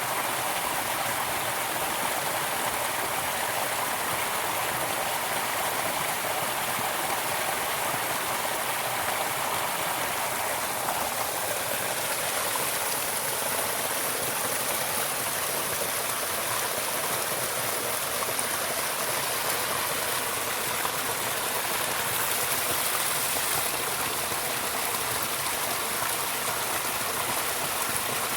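Steady, even water noise, like running water or rainfall, with no breaks or separate drops standing out.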